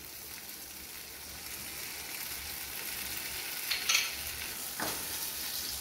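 Sliced onions and tomatoes frying in an aluminium kadai on a gas stove: a steady sizzle, with two brief sharper sounds about four and five seconds in.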